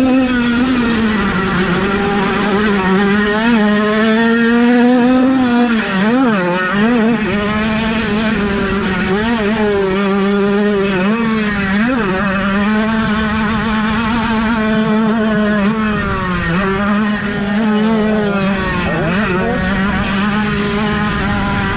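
A 50cc two-stroke minicross motorcycle engine racing at high revs. Its note holds steady, then drops sharply and climbs again several times as the rider shuts off and gets back on the throttle.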